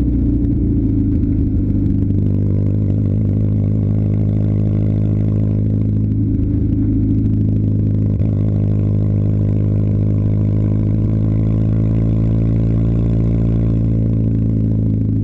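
Simca car engine running steadily, heard through its exhaust at a constant engine speed.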